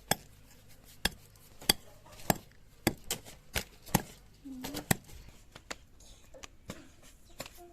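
Knife chopping food on a cutting board: a string of sharp, uneven chops about every half second to second, lighter in the last few seconds.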